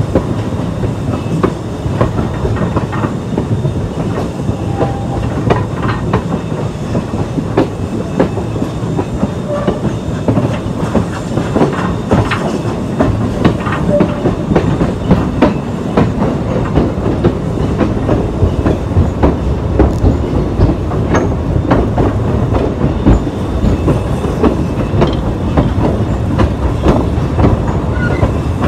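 Train cars rolling along the track: a steady low rumble with a dense, irregular run of clacks and knocks from the wheels.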